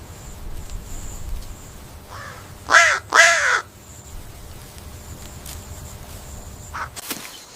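A bird gives two loud, harsh calls in quick succession, each falling slightly in pitch, after a fainter call just before them.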